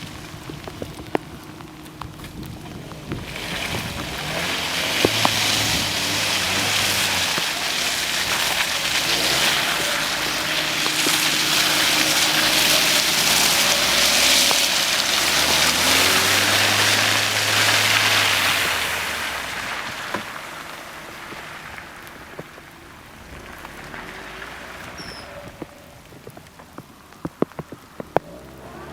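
Hyundai Tucson driving through mud with the engine running under load while its tyres churn and throw mud and water against the body. This makes a loud splashing hiss that builds a few seconds in, holds, and fades away after about twenty seconds. A few sharp knocks come near the end.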